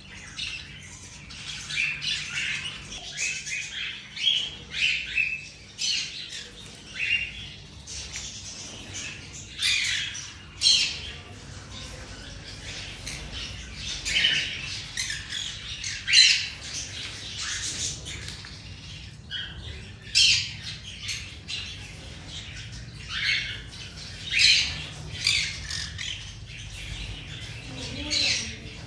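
Many caged exotic birds squawking in short, harsh calls that come one after another and often overlap.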